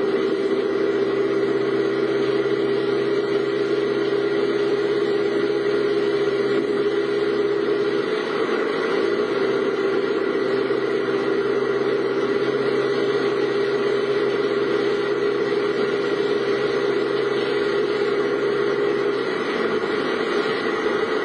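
Car engine running steadily, heard from inside the cabin as a constant hum; its note shifts slightly about eight seconds in and again near the end.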